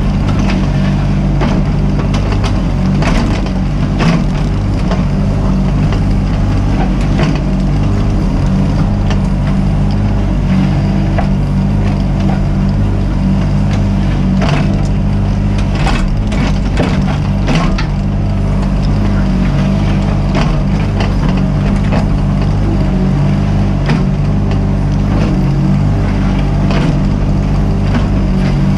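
Mini excavator's diesel engine running steadily under working load, with repeated knocks, scrapes and crunching as the machine digs and breaks material.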